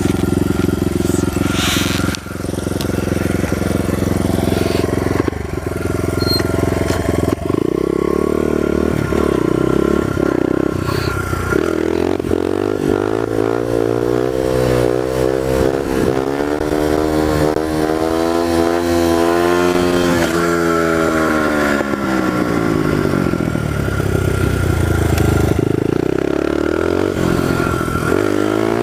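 1998 Honda XR100 pit bike's small single-cylinder four-stroke engine, fitted with a loud FMF aftermarket exhaust, running as the bike is ridden. The revs rise and fall with the throttle, with one long climb in pitch past the middle and a fall after it, then another rise near the end.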